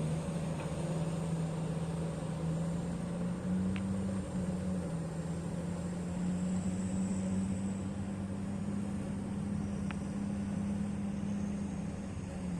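Diesel engine of heavy mining equipment running steadily with a low drone, its pitch rising slightly about three seconds in. Two faint clicks are heard, one near the start and one near the end.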